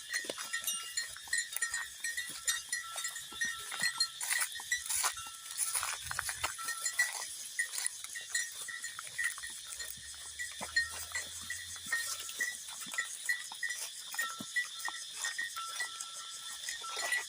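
Outdoor animal calls: a short high chirp repeated evenly about two to three times a second, with a held high tone now and then, over a steady high hiss.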